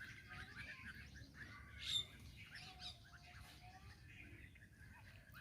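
Bulbuls calling faintly in short chirps, with one louder call about two seconds in.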